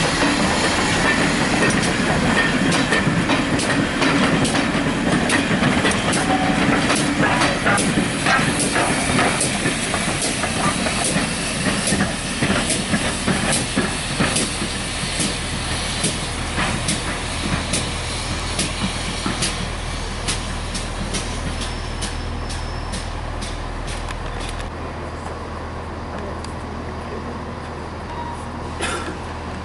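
A slow-moving train with its wheels clicking over rail joints, the clicks growing sparser and the sound getting quieter as it draws away. A hiss of steam is heard at first, and a steady low hum sits underneath in the later part.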